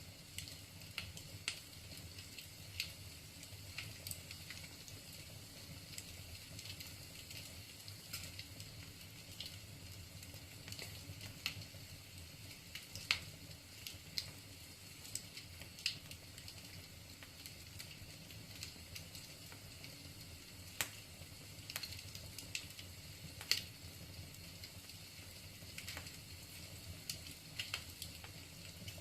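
Wood fire burning in a fireplace: a steady low hiss with scattered sharp crackles and pops from the burning logs, one every second or two at irregular intervals.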